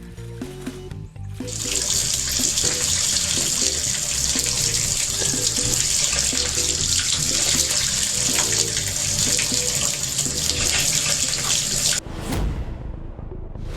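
Steady rush of running water, like a tap running, starting about a second and a half in and stopping suddenly near the end, over background music.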